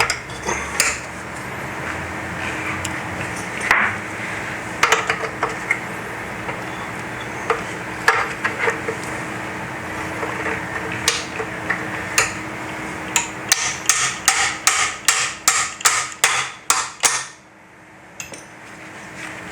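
Tapping with a hammer on metal mixer parts during reassembly: scattered single taps, then a quick run of about a dozen taps that stops shortly before the end.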